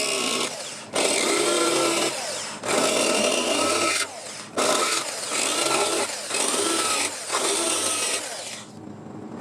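Handheld power tool working on car body sheet metal in repeated bursts of one to two seconds. Its pitch shifts as it bears on the work, with short pauses between bursts and a longer pause near the end.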